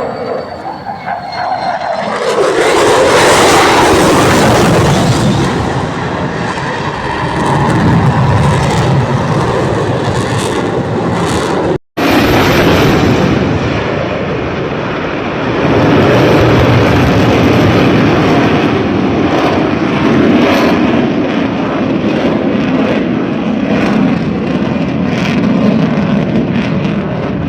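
F-35 fighter jet's engine noise, swelling to loud within the first few seconds. It breaks off for an instant just before halfway, then comes back as a second long stretch of loud jet noise.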